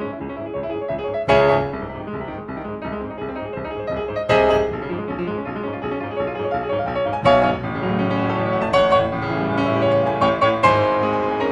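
Piano music, a slow sequence of sustained chords with sharp note onsets every few seconds, growing busier and a little louder in the second half.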